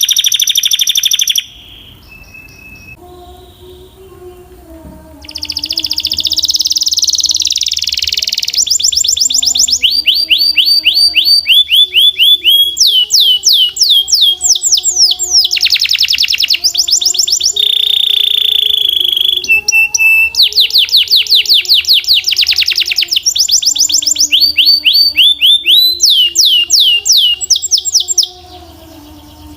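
Belgian canary singing loudly in long high-pitched phrases of fast repeated notes and trills. The song breaks off briefly about a second and a half in, resumes a few seconds later, and then runs almost without pause until just before the end.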